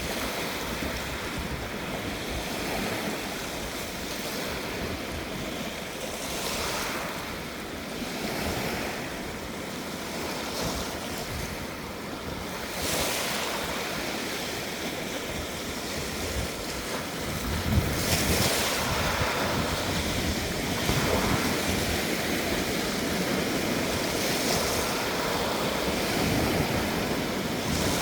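Sea surf: a continuous wash of waves on the shore, with louder breakers swelling in every few seconds, the strongest about two-thirds of the way through.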